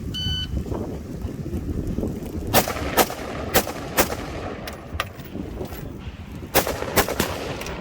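Shot timer beeps once at the start, then rifle shots are fired in quick pairs about half a second apart, three pairs in all, with a few fainter cracks between them.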